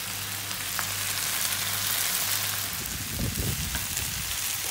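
Purslane stir-fry with chillies and garlic sizzling steadily in oil in a frying pan. A little after three seconds a spoon stirs and knocks in the pan.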